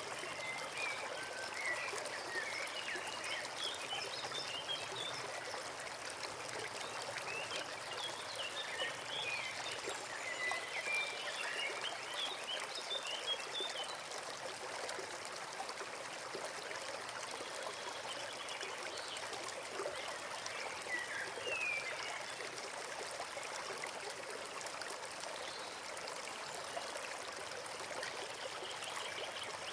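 A forest stream running and trickling steadily, with birds chirping in short bursts now and then.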